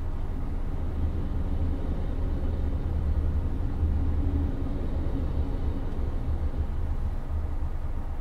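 Hyundai Avante at highway speed, heard from inside the cabin: a steady deep road and engine rumble with the air conditioning blowing.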